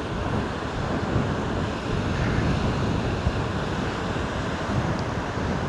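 Rough storm surf rushing onto the shore, with wind buffeting the microphone; a steady rushing noise with no single crash standing out.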